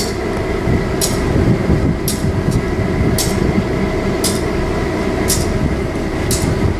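A train running by, a dense steady rumble with a sharp click about once a second.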